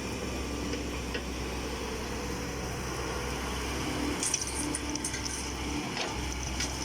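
Excavator engine running steadily under load as the bucket pries into hard, stony clay, with a few short high-pitched squeals about four seconds in and again near the end.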